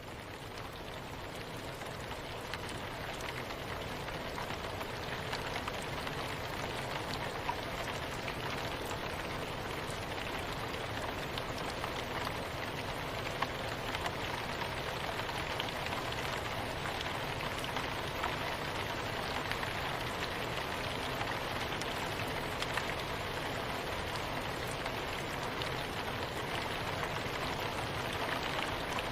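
Steady rain falling, an even hiss dotted with the fine patter of individual drops, swelling up gradually over the first few seconds and then holding level.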